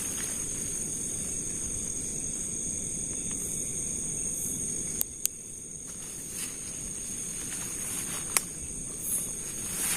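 Night insects, crickets or similar, trilling steadily in two high continuous tones over a low rustling rumble. Two sharp clicks come close together about halfway through, and a louder single click follows near the end.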